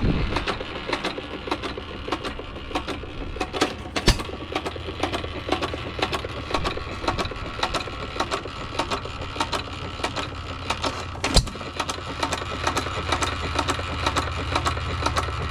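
An antique hit-and-miss stationary gas engine running, with a steady rapid clicking over a low hum. There are two louder bangs, about four seconds in and about eleven seconds in.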